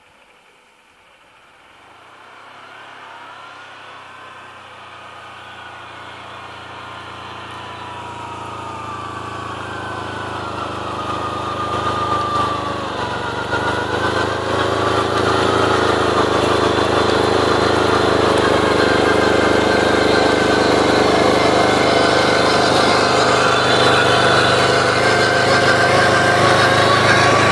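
Arctic Cat diesel quad's engine running at a steady pace, growing steadily louder over the first fifteen seconds or so and then holding level. A fainter higher whine wavers up and down in pitch along with it.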